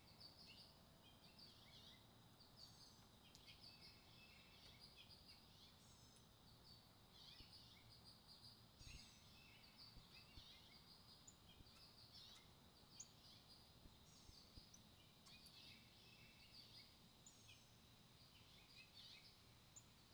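Faint chorus of small wild birds chirping and twittering: many short, high calls and trills overlapping throughout, over a low, steady background rumble.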